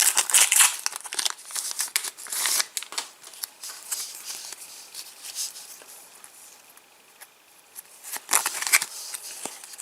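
Trading-card packet being torn open and its wrapper rustled and crinkled. The crinkling is loudest in the first three seconds and again shortly before the end, with a quieter stretch in between.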